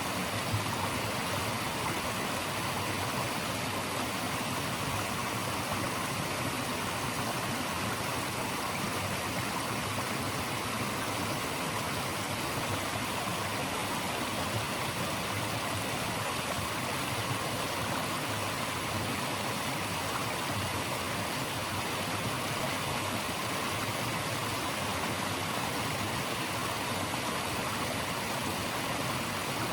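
Running water of a stream, a steady, unbroken rushing hiss.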